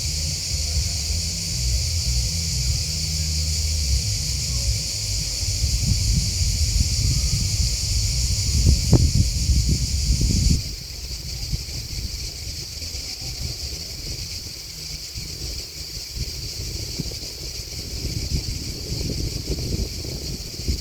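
Dense, steady chorus of chirping insects, high-pitched and unbroken, over a low rumble of wind on the microphone. About halfway through, the whole sound suddenly drops to a quieter level.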